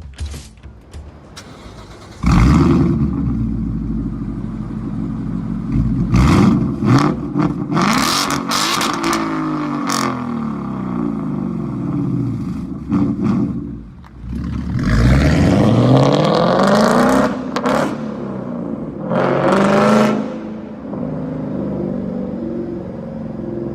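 2016 Ford Mustang GT's 5.0-litre V8 running through a full 3-inch exhaust with X-pipe and Vortek RS valved cutout mufflers. The engine comes in suddenly about two seconds in, then idles, and is revved three times, the pitch rising and falling each time.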